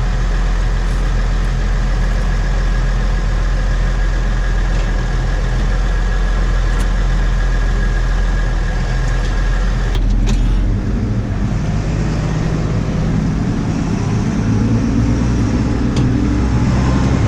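New Holland 6080 tractor engine running steadily. There is a click about ten seconds in, after which the engine note changes and gets fuller.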